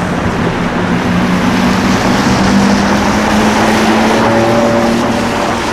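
A car engine running with a steady low note that climbs slightly in pitch, over road and traffic noise. It grows louder in the first second.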